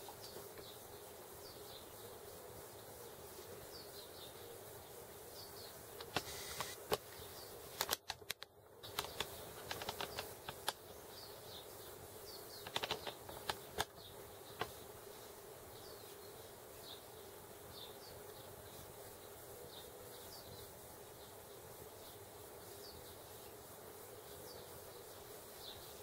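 Faint short high bird chirps every second or two over a steady low hum, with a run of sharp clicks and knocks from the camera being handled during the middle third.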